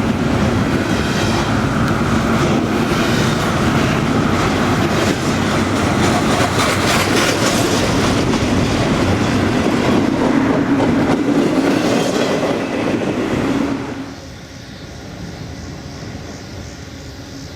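A train passing close by, its wheels clattering over the rails with a steady loud rumble, which drops away sharply about fourteen seconds in.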